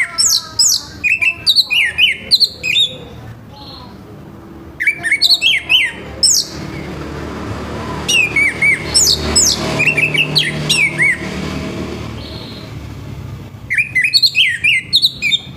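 Orange-headed thrush singing its loud full song: four bursts of rapid, varied whistled notes that slide up and down, separated by short pauses. A low background rumble rises under the song midway and fades again.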